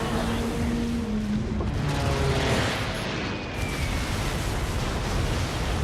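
Film battle soundtrack: music with held notes that fade out about a second and a half in, over a continuous low rumble of explosions.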